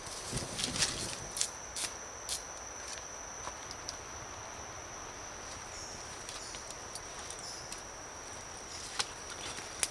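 A steady high-pitched insect drone, with sharp clicks or knocks, several in the first two and a half seconds and a couple more near the end.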